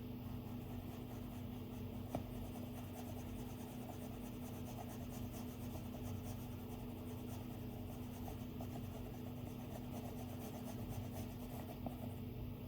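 Stylus tip drawing on an iPad screen: quick, light strokes and tiny ticks, with one sharper tap about two seconds in. A steady low hum sits underneath.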